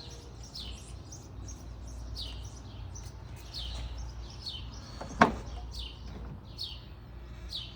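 A bird calling over and over with short falling chirps, about one or two a second, over a steady low outdoor rumble. One sharp knock stands out about five seconds in.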